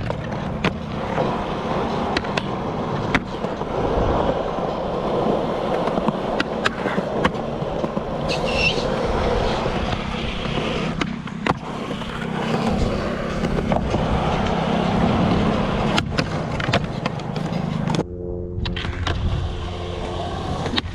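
Skateboard wheels rolling on concrete with a continuous rumble, broken by a number of sharp clacks of the board on the ground.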